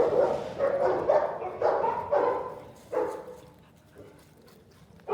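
Labrador retrievers barking, about four bursts of barks in the first three seconds, then quieter.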